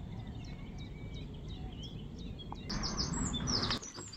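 Small birds chirping repeatedly over a steady low rumble. About three seconds in, a louder, noisier burst with sharper chirps lasts about a second.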